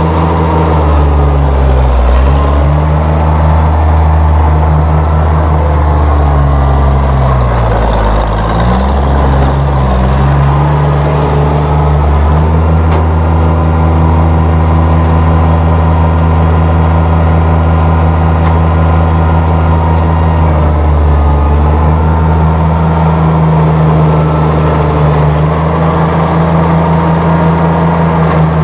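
Oliver 1650 tractor's six-cylinder gasoline engine running steadily, its speed dipping briefly and coming back up three times: early on, about a third of the way through, and about two-thirds through.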